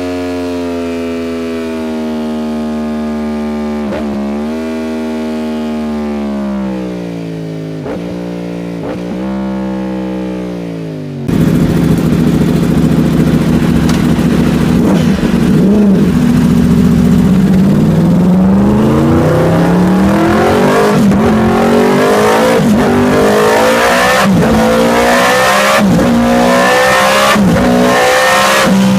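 Yamaha YZF-R1M crossplane inline-four sport bike engine and exhaust. For about the first eleven seconds the engine note falls slowly in pitch. Then a sudden cut leads to a louder stretch of hard acceleration, the revs rising again and again with brief breaks between gear changes.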